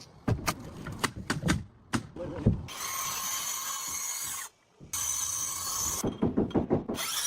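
Several knocks on wood, then a power tool runs twice in steady stretches of about two seconds and one second with a short break between, then more knocks near the end.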